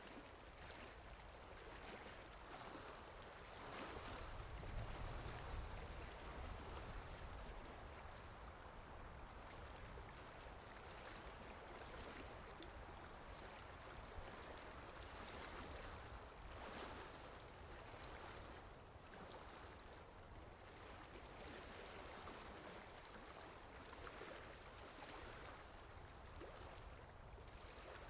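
Steady, soft rain falling as an even hiss, with a low rumble swelling briefly about four to six seconds in.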